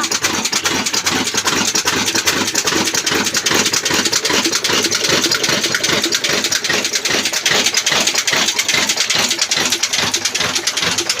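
Old Ruston Hornsby single-cylinder diesel engine running at a steady speed with a fast, even knocking beat.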